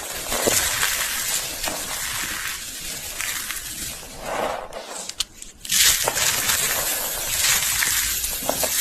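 Slate pencils being bitten and crunched, a dense dry crackling that breaks off briefly about five seconds in and then resumes.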